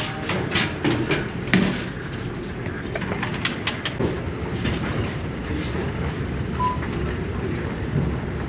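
Shopping cart rolling and rattling, a steady clatter with many small clicks and knocks, several sharper ones in the first couple of seconds.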